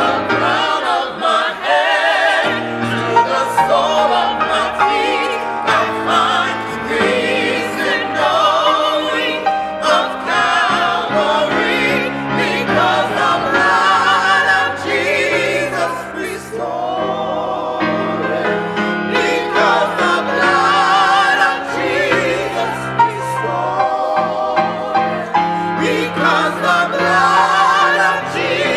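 Church choir singing a sacred piece, the voices sustaining notes with vibrato.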